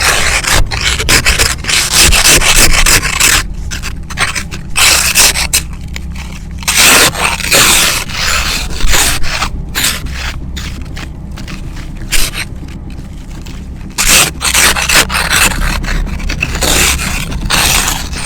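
Ice scraper scraping ice off a frozen car windshield in repeated strokes of uneven length, over the low rumble of wind on the microphone.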